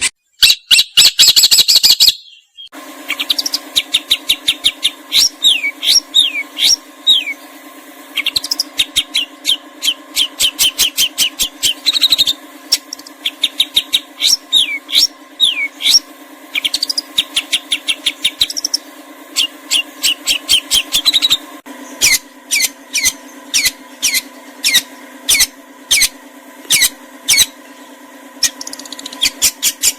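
A songbird singing in quick runs of short, sharp, falling whistled notes over a steady low hum. The opening two seconds hold a louder, denser stretch of bird song before a cut.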